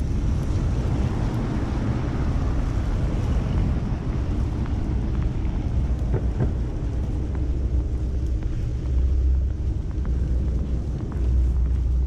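Storm wind buffeting the camera microphone in a low, uneven rumble, with city traffic passing; a vehicle's hiss swells and fades about one to three seconds in.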